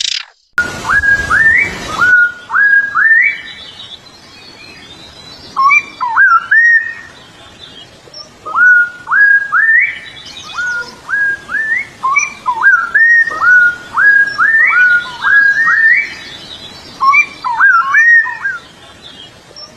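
A bird whistling a long song of clear, pure notes, many of them quick upward or downward slides, strung into phrases with short pauses between them.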